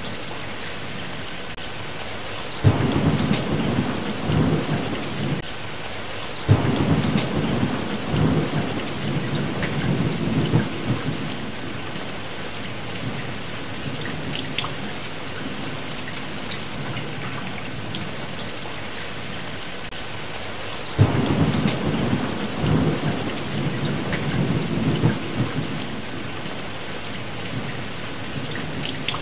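Steady heavy rain, with rolls of thunder that break in suddenly three times, about three, six and twenty-one seconds in, each rumbling on for a few seconds.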